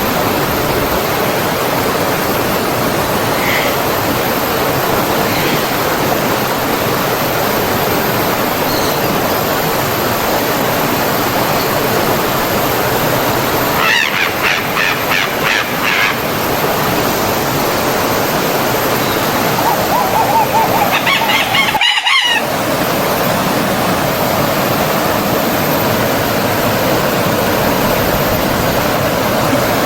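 Stream water rushing steadily over rocks. About halfway through, a bird gives a quick run of repeated calls, and a few seconds later another bird call is followed by a brief cut in the sound.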